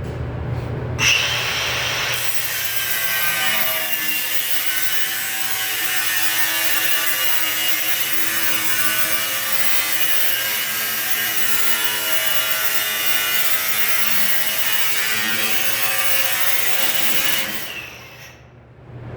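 A power tool running steadily on sheet metal work, with a faint steady whine in its noise. It starts abruptly about a second in and cuts off shortly before the end.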